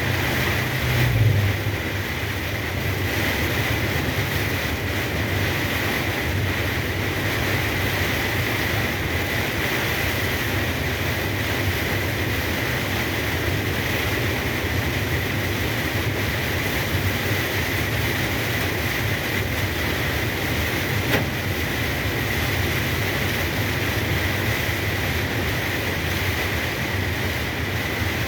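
A truck driving in heavy rain: a steady low engine drone under an even hiss of rain and road noise, with a brief louder low bump about a second in.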